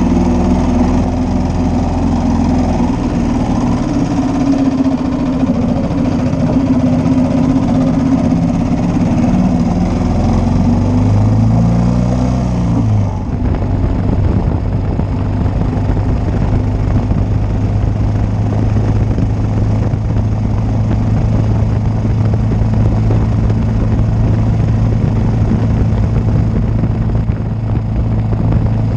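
1941 Matchless G3L's 350 cc single-cylinder engine running, its note shifting and briefly rising in the first half. About halfway through the sound changes abruptly and a steady, even engine note holds from then on.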